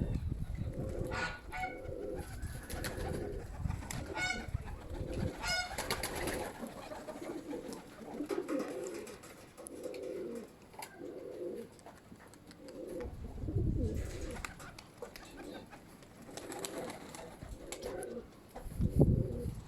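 Domestic pigeons cooing over and over, about once a second, with a few short rattles in the first six seconds. Low wind rumble on the microphone at the start, briefly in the middle and again near the end.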